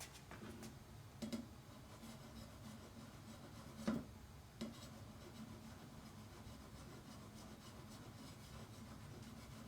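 Knife blade being drawn over a fine whetstone to sharpen the tip: faint scraping strokes, with a few light knocks, the loudest about four seconds in.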